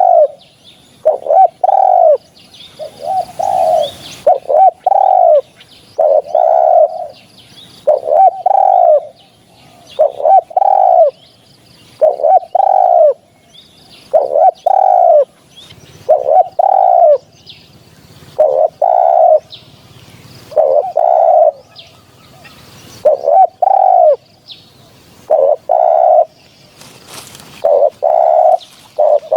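Spotted dove cooing over and over: groups of two or three rounded coo notes that rise and fall in pitch, repeated about every two seconds.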